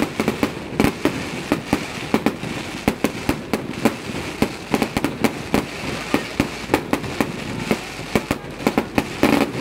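Fireworks display going off: a rapid, irregular string of sharp bangs and pops, several a second, over a steady hiss.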